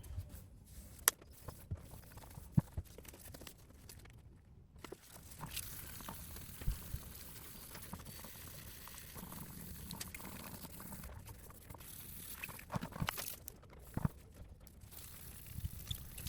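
Scattered clicks, taps and knocks of hand work on parts, a few sharper knocks standing out among fainter handling noise.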